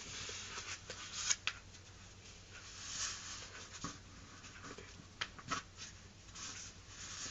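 A sheet of letter-size printing paper being flipped over and folded by hand: soft rustling with a few short crisp crackles as the crease is pressed.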